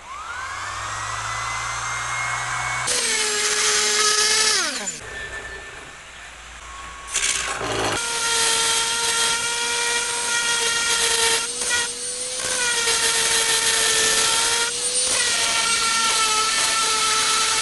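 Electric sander sanding wood pieces. Its motor spins up with a rising whine, runs louder against the wood, then winds down about five seconds in. It starts again after a short pause and runs steadily to the end, with a few brief dips.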